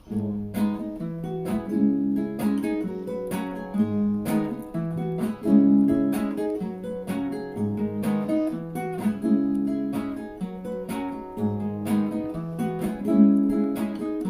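Acoustic guitar strummed in a steady rhythm, changing chords as an instrumental introduction before the singing begins.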